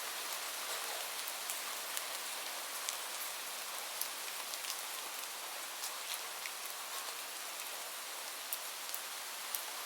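Steady rain falling, an even hiss with scattered sharp ticks and pops.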